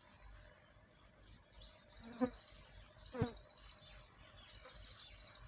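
Faint outdoor background of a steady high insect drone with short, repeated bird chirps, and two brief louder calls about two and three seconds in.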